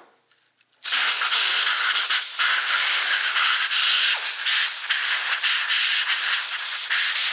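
Compressed-air blow gun hissing steadily as it blows sawdust out of a chainsaw, starting suddenly about a second in.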